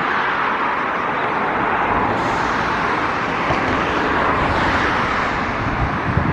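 Typhoon-swollen river rushing steadily, with gusts of wind buffeting the microphone.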